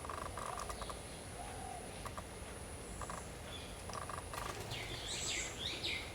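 Bird calls: a few short, faint rattling chirps, then from about four and a half seconds in a quick series of loud, harsh, raspy squawks.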